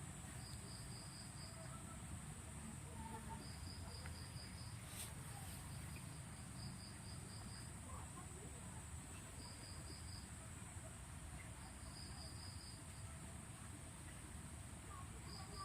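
Insects in the background: a steady high-pitched buzz, with a cricket chirping in short trills of about five pulses every two to three seconds. A low rumble lies underneath, and there is a single click about five seconds in.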